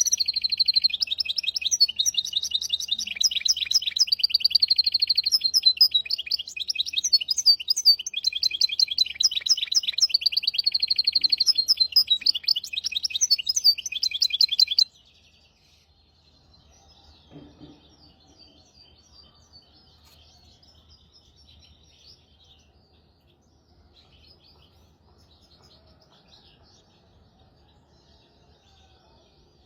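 A goldfinch × canary hybrid (mule) singing a loud, fast song of rapid trills and rattling phrases, which cuts off abruptly about halfway through and leaves only faint scattered chirps.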